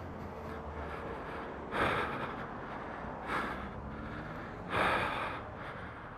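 A man breathing out heavily three times, about a second and a half apart, in shaken sighs just after crashing his motorcycle, over a steady low hum.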